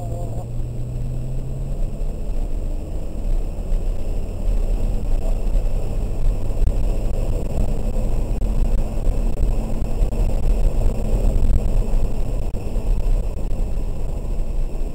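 Inside the cabin of a 2003 BMW 330i ZHP being driven on a wet track: the straight-six engine runs under a heavy low rumble of tyre and road noise. The engine note rises a little in the first couple of seconds, and the noise grows louder after that.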